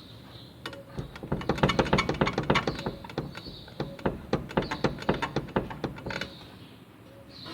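Ford Courier's worn front suspension clunking and rattling as the wheel is rocked by hand on the lift, a rapid series of knocks for about five seconds starting about a second in. The knocking is the sign of excessive play in the front end, which the mechanic calls dangerous.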